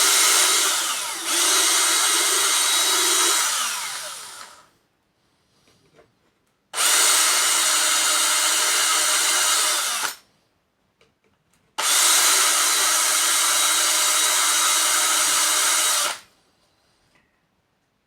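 Electric drill fitted with a milling cutter, widening a hole in plexiglass, run in three bursts of about four seconds each. The first run winds down slowly; the other two start and stop sharply.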